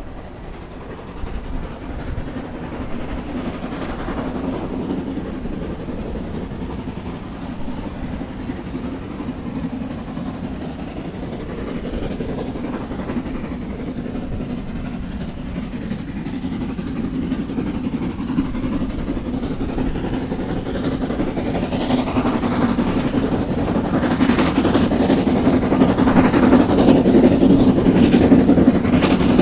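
A steam-hauled train running along the line towards the listener, growing steadily louder, most of all in the last few seconds.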